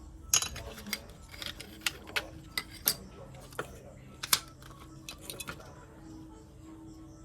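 Irregular sharp clicks and taps of small hard objects being handled, about a dozen in all, the loudest about half a second in and again past four seconds, thinning out after about five and a half seconds.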